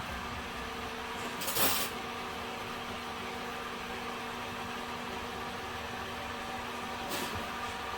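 Homemade wooden electric fan running: a steady motor hum with the even rush of moving air. Two brief louder swishes come, about one and a half seconds in and again near the end.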